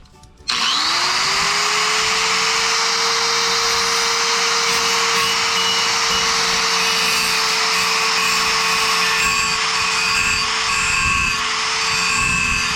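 Electric angle grinder starting about half a second in, its pitch rising as the motor spins up, then running steadily while cutting into the steel of a car's rusted side sill.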